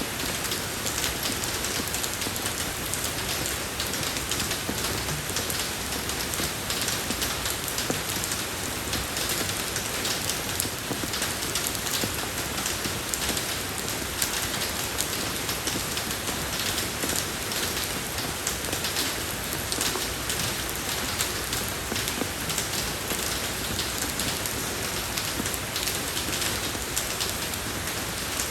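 Steady rain falling on a road: a continuous hiss with dense drop patter and no change in intensity.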